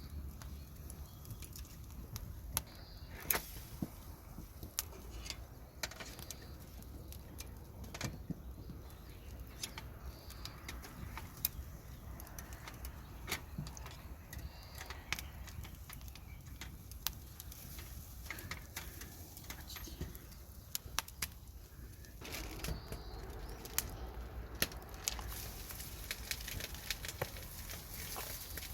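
Irregular sharp clicks and light knocks, scattered throughout over a low steady hum.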